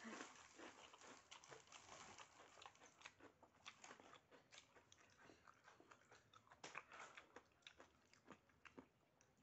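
A person chewing a mouthful of instant noodles and rice close to the microphone: an irregular run of quick mouth clicks and smacks, several a second.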